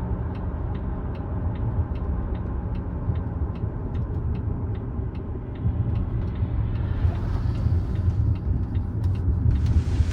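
Cabin road noise of a Volvo XC60 T8 plug-in hybrid crossover on the move, a steady low rumble with a regular light ticking about two or three times a second. The rush of tyre and wind noise grows louder in the second half as the car picks up speed.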